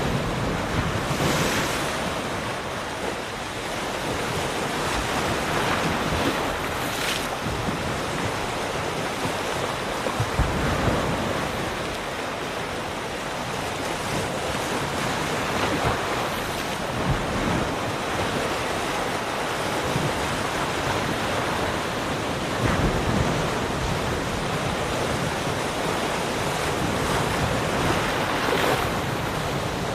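Ocean surf: waves breaking and washing onto a shore in a continuous rush, with wave crashes swelling up every few seconds. Some wind noise on the microphone.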